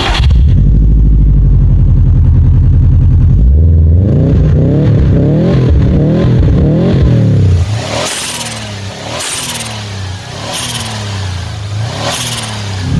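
Car engine running loud, then revved repeatedly with its pitch rising and falling from about four seconds in. In the second half, four short sharp bursts come just over a second apart as the engine note drops.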